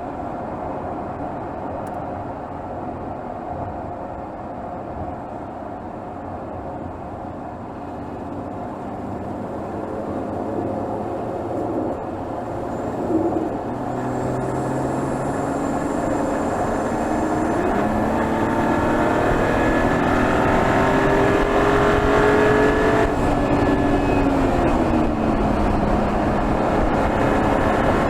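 Mercedes GLS 450's 3.0-litre turbocharged inline-six, heard from under the hood, running under load with its note growing louder and rising steadily in pitch as the SUV accelerates. Near the end the pitch drops back and levels off, as the automatic gearbox shifts up.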